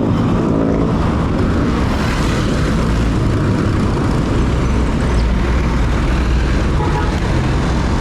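Steady road noise while riding a bicycle along a street with motor traffic: a continuous rushing rumble, heaviest at the low end, as of wind on the microphone and passing cars.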